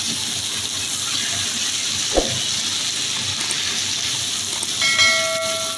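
Okra, onions, tomatoes and green chillies sizzling in oil in a frying pan as they are stirred, with a single knock about two seconds in. Near the end a short bell-like chime of several held tones sounds over the sizzle.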